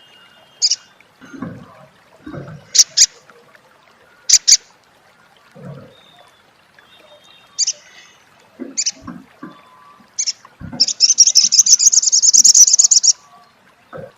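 Spiderhunter (sogok ontong) calling: sharp single and paired high call notes, then a fast, loud chattering trill of about two seconds near the end. A few low thumps in between.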